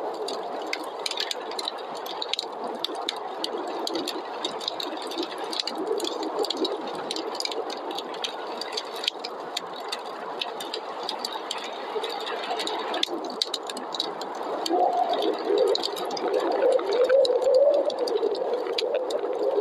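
Fireplace fire crackling with many small sharp pops, over the steady rush of snowstorm wind. The wind swells louder with a wavering howl in the last few seconds.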